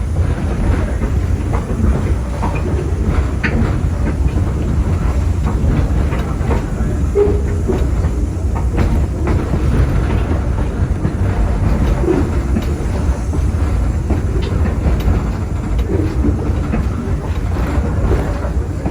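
Passenger train rolling along the track, heard from aboard a coach: a steady low rumble of wheels on rail with faint scattered clicks.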